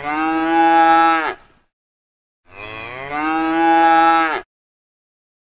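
A cow mooing twice: two long moos, each rising in pitch at the start and then held, about a second apart.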